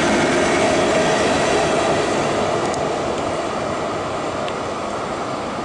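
Frecciabianca express train, an electric power car hauling Eurofima coaches, passing at speed: a steady rumble and rush of wheels on rail that fades as the train draws away, from about two seconds in.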